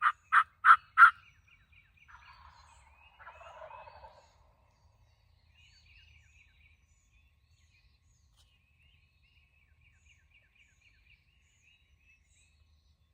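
Wild turkey calling: a run of loud, evenly spaced yelps, about three a second, in the first second. A fainter, longer gobble follows between about two and four seconds in. After that, only small songbirds chirp faintly.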